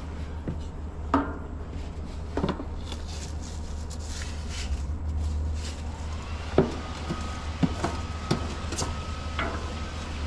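Handling noises: a handful of scattered light knocks and clicks, over a steady low hum.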